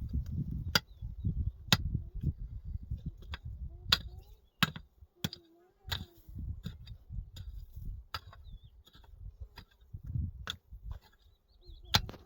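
Wood being struck during hut building: about ten sharp knocks at irregular intervals over a low rumble.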